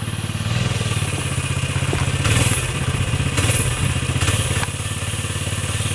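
An engine running steadily with a fast, even pulse, with a few short bursts of hiss over it about two, three and four seconds in.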